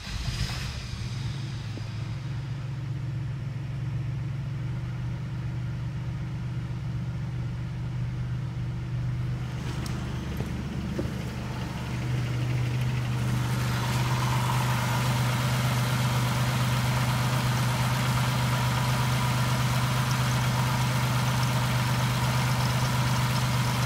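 Pontiac 3400 V6 engine catching as the key is turned and then idling steadily, heard at first from inside the cabin. About fourteen seconds in it gets louder and clearer, heard up close in the open engine bay.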